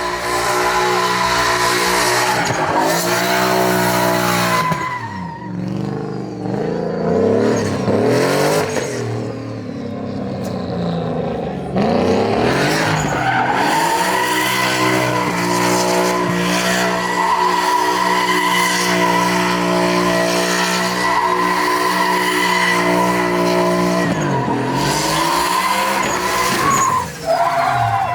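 Truck engine held at high revs during a burnout, with tyres screeching. The revs fall and climb again several times between about 5 and 11 seconds in, jump back up suddenly, then dip twice near the end.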